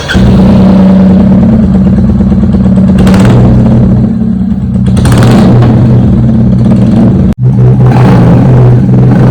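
Royal Enfield Bullet 350's single-cylinder engine running loud through a free-flow aftermarket silencer, with two short blips of the throttle about three and five seconds in. The sound cuts out for an instant about seven seconds in.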